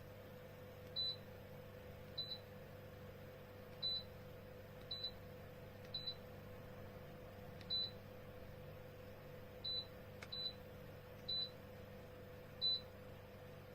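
Electric fireplace's control beeping: about a dozen short high beeps at irregular intervals of one to two seconds, some in quick pairs, as its buttons are pressed, over a steady hum.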